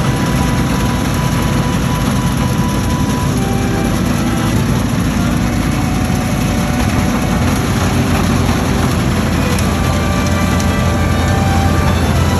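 New Holland TX66 combine harvester running, a steady, even machine drone with a low hum.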